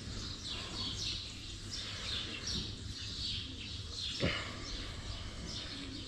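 Small songbirds chirping repeatedly in short calls, with one brief downward-sweeping sound about four seconds in.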